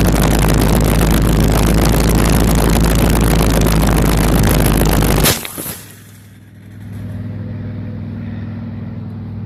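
Loud wind rushing over a falling phone's microphone, ending abruptly in a hard impact as it hits the ground about five seconds in. After a brief lull a steady low hum comes up.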